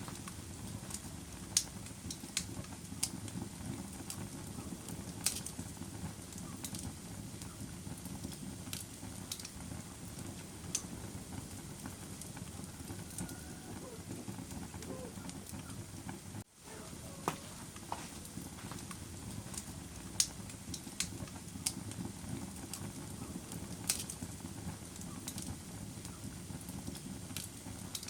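Wood fire burning in a fireplace: a steady low rumble of the flames with frequent, irregular sharp crackles and pops. The sound drops out for a moment a little past halfway.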